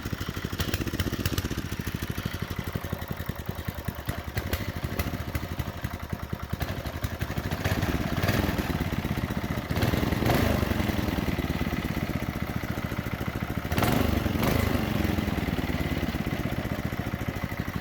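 Small petrol minibike engine running at a steady idle, revved up and let back down three times in the second half. It is a replacement engine, freshly started for the first time on the bike.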